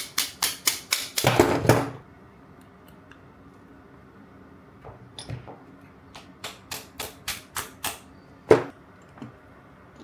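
Quick runs of sharp metallic clicks from hand tools and parts of a reciprocating saw being worked on during disassembly, at about four a second. A louder rattle comes about a second in, and a single hard knock near the end.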